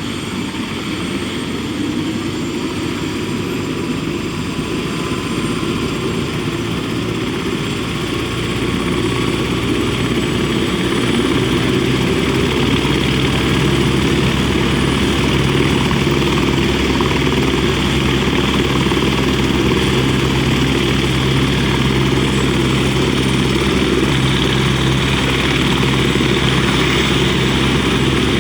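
Helicopter running steadily, its engine and rotor making a continuous low hum with a hiss over it, growing louder from about eight seconds in.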